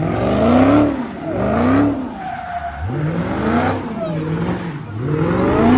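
A car engine revving up and falling back over and over, about once a second, with tires squealing and skidding underneath.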